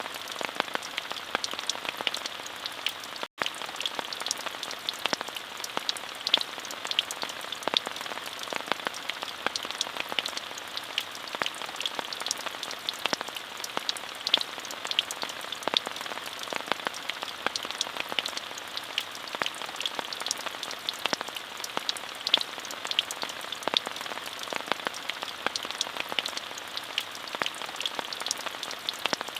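Steady rain with many separate drops ticking through it. The sound drops out completely for a split second about three seconds in.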